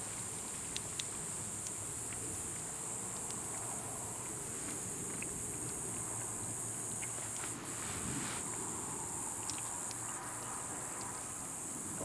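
Chorus of night insects, a steady high-pitched trilling that never lets up. A few faint ticks and a brief rustle about eight seconds in.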